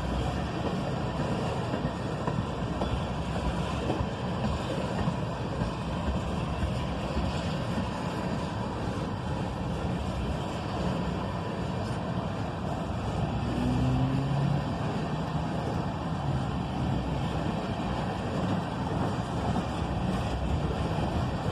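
Freight train of ethanol tank cars rolling past, a steady rumble of wheels on rail.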